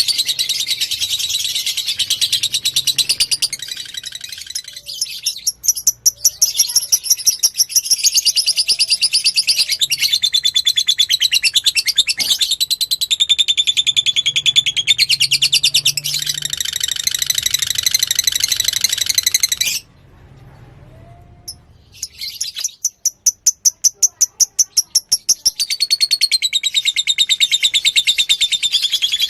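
Lovebird singing a long, fast chattering trill: a rapid, unbroken string of high, shrill notes. It breaks off for about two seconds roughly two-thirds of the way through, then starts again.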